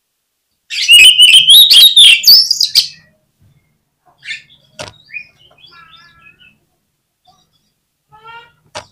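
Oriental magpie-robin (kacer) singing. A loud, harsh burst of rapid clicks and whistles starts about a second in and lasts about two seconds, then come softer scattered calls and a short phrase ending in a sharp click near the end.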